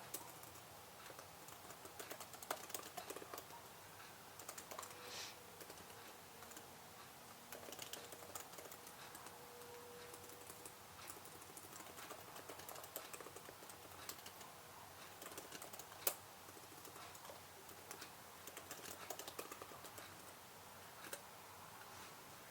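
Typing on a computer keyboard: faint key clicks in irregular runs with short pauses between them, and one louder single click about sixteen seconds in.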